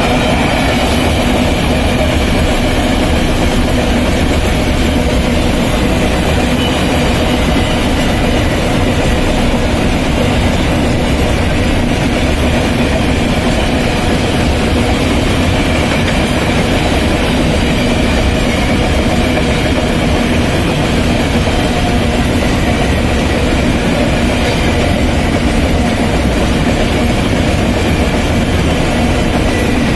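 Iron-ore freight train's gondola wagons rolling past close by: a steady, loud rumble of steel wheels on rail, with faint steady tones running through it and no change in pace.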